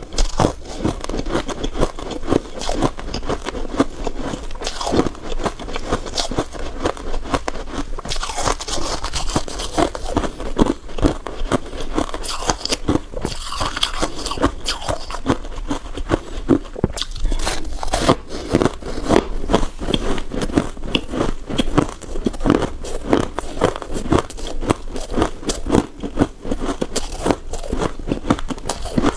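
Close-up crunching of freezer frost (white ice) being bitten and chewed: a dense, continuous run of crisp crunches.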